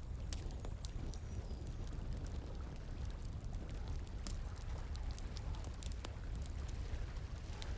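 Wood fire crackling with many scattered sharp pops, over the steady rush of flowing water.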